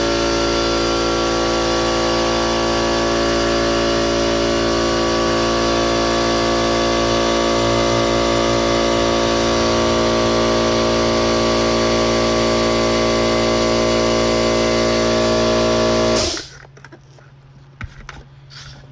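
Air compressor running steadily, refilling its tank after compressed-air cleaning, then shutting off abruptly about 16 seconds in, leaving a low hum and a few light clicks.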